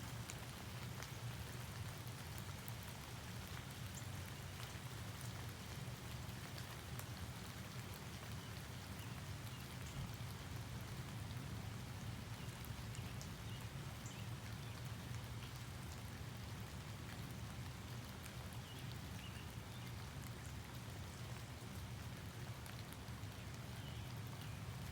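Steady rainfall, with scattered single drops ticking close by over a low, steady rumble.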